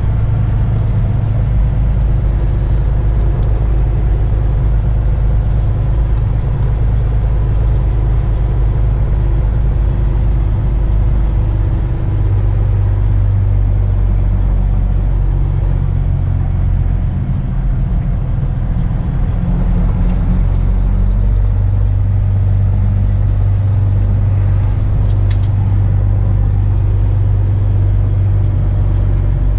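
Semi truck's diesel engine running at low speed, heard from inside the cab as the rig pulls into a parking spot. It holds a deep, steady note that shifts slightly a couple of times.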